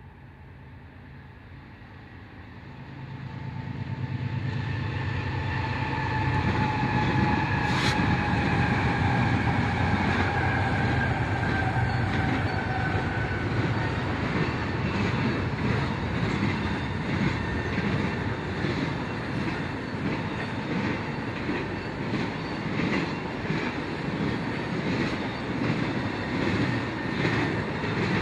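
A diesel-hauled freight train approaching and rolling past: locomotive engine rumble builds over the first few seconds, with a whine that slides slowly lower over several seconds. The cars then roll by with a repeated clickety-clack of wheels over rail joints.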